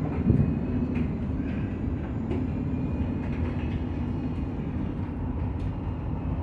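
Steady low rumble of a vehicle driving, with a couple of knocks right at the start.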